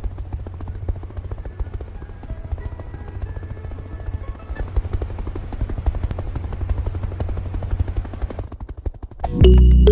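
A small motor running with a fast, steady rattle of clicks over a low hum. It dies away shortly before the end, when music comes in.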